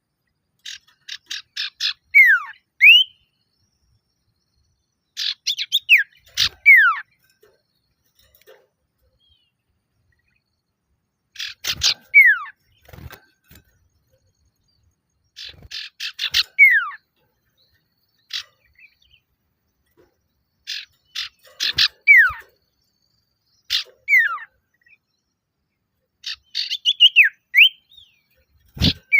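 Male common iora (sirtu/cipoh) calling in repeated bouts: each bout is a quick run of short high notes ending in one or two downward-sliding whistles, with short pauses between bouts.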